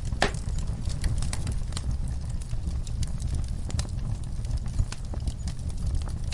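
Wood fire in a fireplace crackling and popping irregularly over a steady low rumble of the flames, with one louder pop just after the start.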